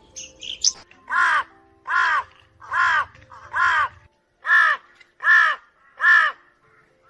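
A bird giving a series of seven loud calls, evenly spaced a little under a second apart, each short and rising then falling in pitch. A few faint high chirps come just before the series.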